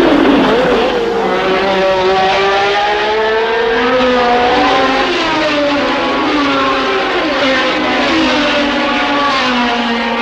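Formula 1 car engine running hard, its pitch climbing slowly and falling back several times as it goes up and down through the revs and gears, with a quick blip about half a second in.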